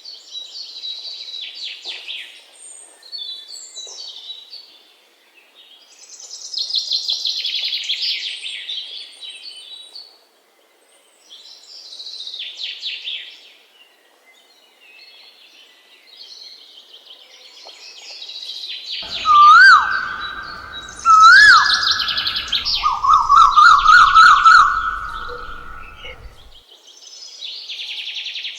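Small birds chirping in repeated short bursts of high, rapid notes. About two-thirds of the way in, a lower, louder call joins for several seconds: two rising whistled notes, then a quick run of notes.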